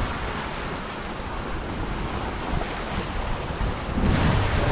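Wind on the microphone and water rushing past the hull of a sailboat moving along under sail, the engine off. The noise grows louder about four seconds in.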